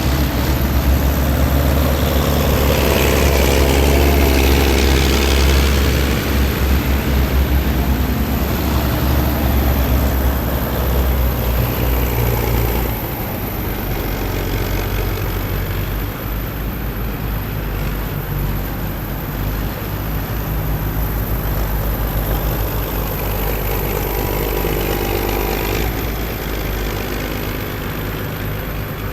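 Heavy military vehicles driving past in a column, their engines making a deep, steady drone. One passes close about three to five seconds in; the low drone drops off about thirteen seconds in, and another vehicle sweeps past near the end.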